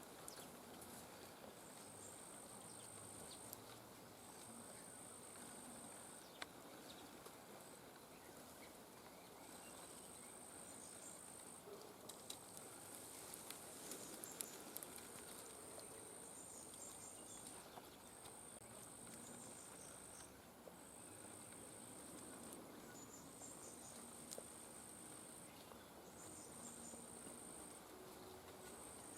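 Faint insect trilling at one steady high pitch, in repeated phrases of about one to two seconds with short gaps, over a quiet background with a few light ticks.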